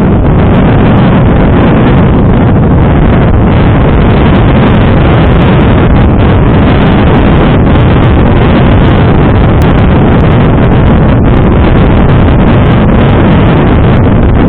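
Heavy wind buffeting on a helmet-mounted action camera's microphone during a motorcycle ride: a steady, very loud rumble that fills the sound. The microphone is taped over with electrical tape inside the weatherproof case, and the wind noise still gets through.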